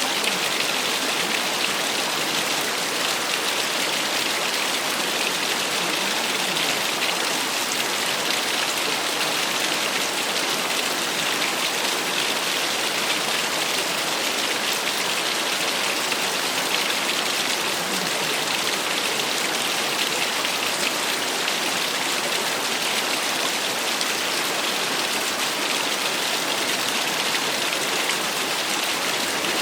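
Small waterfall splashing steadily: a constant, even hiss of falling water with no pauses or changes.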